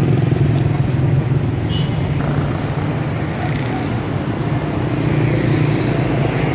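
Motor vehicles running in slow street traffic: a steady low engine drone with road noise.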